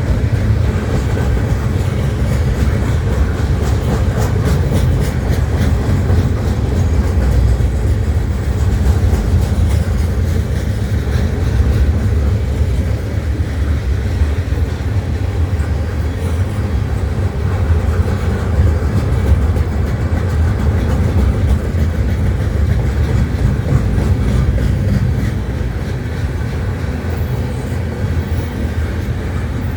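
Loaded freight train of pipe cars rolling past: a steady, loud low rumble of steel wheels on rail, with light clicks through the first several seconds that ease off, and the rumble dropping slightly near the end.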